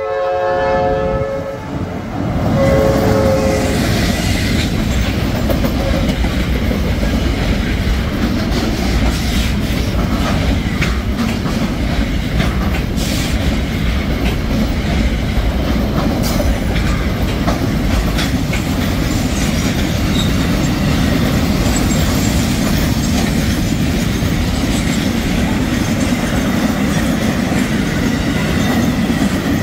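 Diesel freight locomotive sounding its air horn, a long blast and then a short one. It then passes, and a long string of container flatcars rolls by with a loud steady rumble and scattered sharp clicks from the wheels on the rails.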